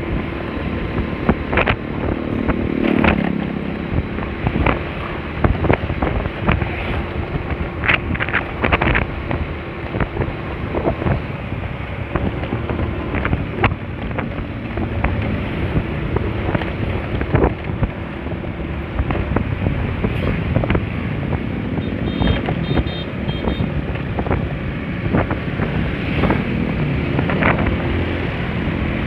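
Wind rushing over the microphone while riding a Honda Spacy scooter, with its engine running steadily underneath.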